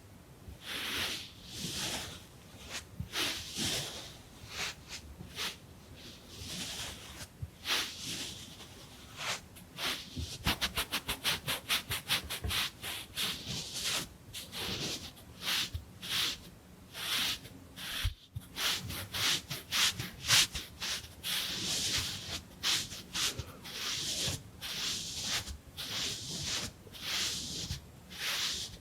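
Close-miked wiping and rubbing strokes of a face-cleaning roleplay, mostly about one a second. Around the middle they speed up into a quick run of short rapid strokes for a few seconds.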